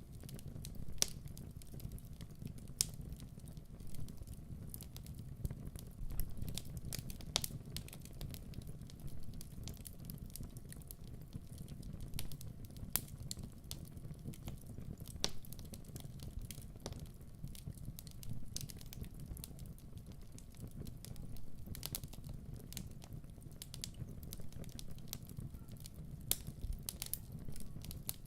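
Wood fire burning in a fireplace: a steady low rumble with sharp pops and crackles at irregular intervals.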